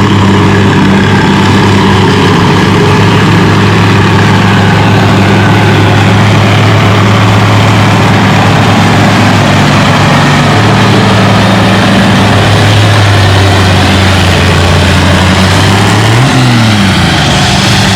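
Oliver 2255 tractor's Caterpillar 3208 V8 diesel running hard under load while pulling the sled, a loud, steady drone; about sixteen seconds in its pitch briefly rises and drops back.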